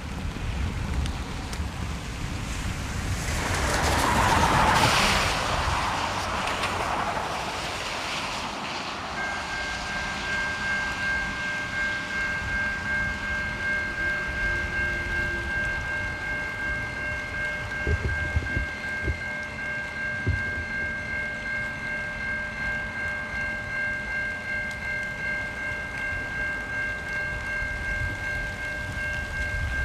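A rushing noise swells and fades about four to five seconds in. From about nine seconds a railroad crossing bell rings steadily with an even pulse, over the low rumble of a freight train.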